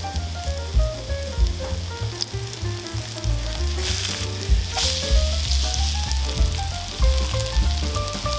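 Zucchini and carrot pancakes frying in oil in a nonstick pan: a steady sizzle that flares up briefly twice about halfway through as they are turned with a spatula. Background music with a stepping melody and bass runs underneath.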